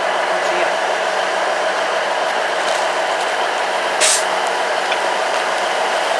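Steady steam hiss from the A1 Pacific steam locomotive 60163 Tornado, with a brief, sharper hiss about four seconds in.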